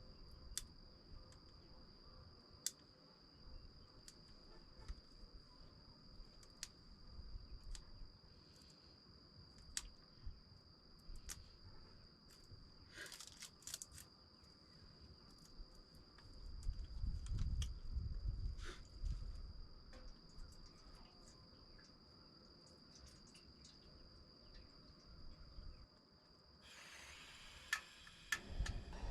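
A cricket-like insect giving one steady, unbroken high-pitched trill, with scattered faint ticks and wind rumbling on the microphone about halfway through. Near the end the trill stops and a steady hiss takes over.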